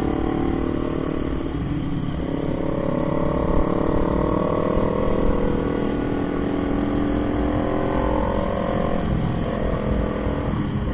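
Motorcycle engine running under way, its note stepping and sliding in pitch a few times as the revs change, over a steady low rush of wind.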